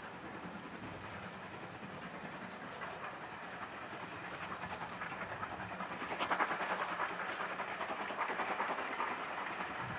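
Steam-hauled train on the move, its wheels and carriages clattering over the rails. The rattle grows louder about six seconds in and stays strong for a few seconds.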